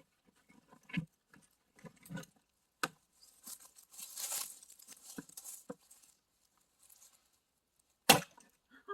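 Axe strikes into a knotty firewood log: a few spaced, lighter blows, then one much louder strike near the end. A rustling hiss runs through the middle.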